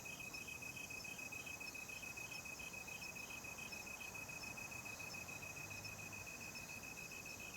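Crickets chirping through the night: a steady high trill with a pulsing chirp about three times a second, over a fainter high hiss of insects. The pulsing chirps drop out about halfway through while the trill goes on.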